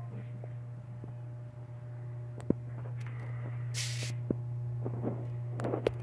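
A steady low hum with a few sharp clicks and a short burst of hiss about four seconds in.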